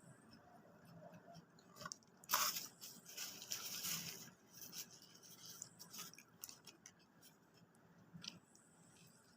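Close-miked eating sounds: a person chewing and crunching fast food, with a louder crunchy stretch starting about two seconds in and lasting about two seconds, then scattered small wet clicks of chewing.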